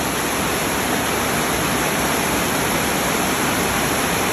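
Heavy rain pouring down, a steady even wash of sound.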